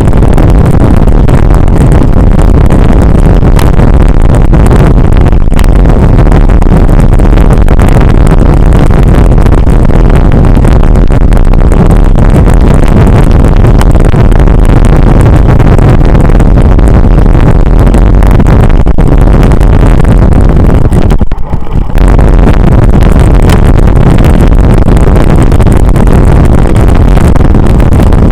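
Loud, constant wind buffeting on the microphone of a camera carried on a moving bicycle. It drops out for a moment about 21 seconds in.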